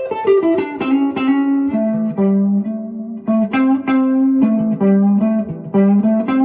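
Guitar playing a single-note blues line in box 3 of the minor pentatonic scale, mixing in the major third, with a few string bends near the start.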